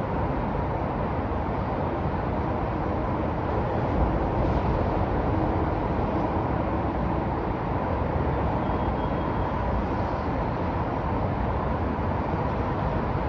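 Downtown city street ambience: a steady wash of traffic noise, with a brief knock about four seconds in.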